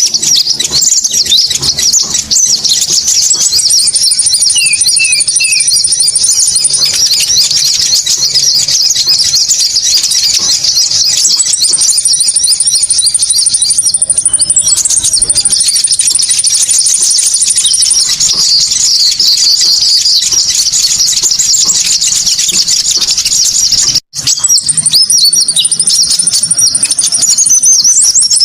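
Loud bird-lure recording of konin bird calls: a dense, unbroken chatter of rapid high-pitched chirps and trills from many small birds, with steady high trills repeating over it. It cuts out for an instant about 24 seconds in.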